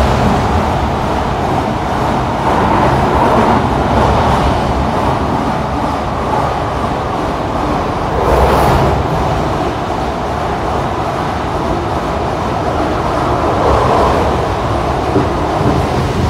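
Cabin running noise of a heritage Sydney S set double-deck electric train under way: a steady rumble of wheels on rail. It swells louder briefly about halfway through and again near the end.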